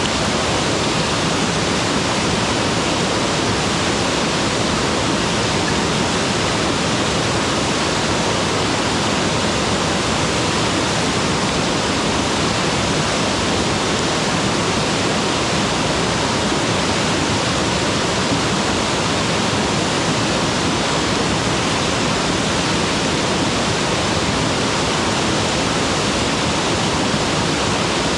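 Mountain waterfall: water falling and rushing in a loud, steady, even roar of noise with no breaks.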